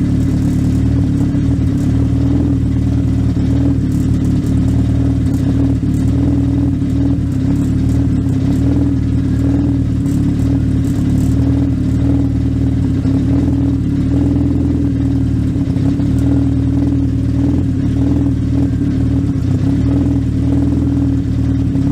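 Legend race car's Yamaha 1200 cc four-cylinder motorcycle engine running at a steady, unchanging speed, heard loud from inside the car.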